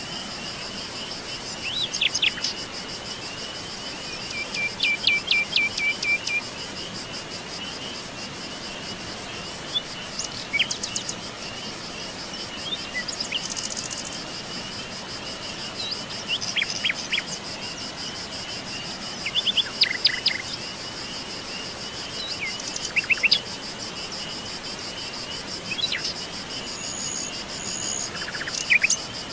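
Several birds singing and calling in short phrases and chirps every few seconds, over a steady, continuous chorus of insects.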